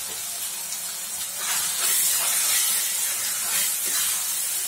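Minced chicken (keema) frying in oil in a stainless steel kadai with a steady sizzle. From about a second and a half in, a spoon stirs and scrapes through it in several strokes, and the sizzle gets louder.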